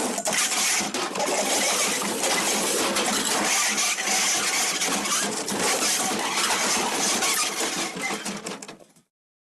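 A crash sound effect: a long, dense clatter of many small hard objects breaking and tumbling. It starts suddenly and fades out near the end.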